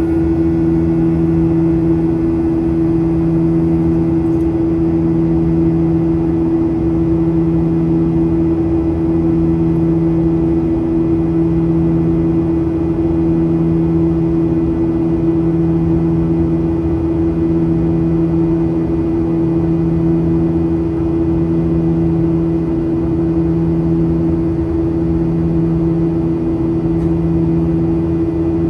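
Boeing 737-800 cabin in flight: the steady drone of its CFM56 engines and airflow, with a low hum that swells and fades about every two seconds.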